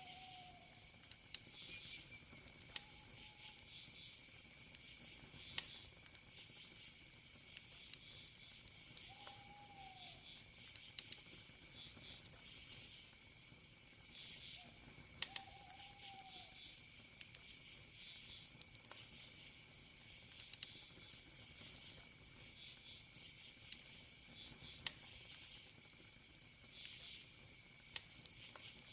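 Campfire of burning wood crackling with scattered sharp pops, over a steady high cricket trill and patches of insect chirping. A few short, low calls sound, at the start and around three, nine and fifteen seconds in.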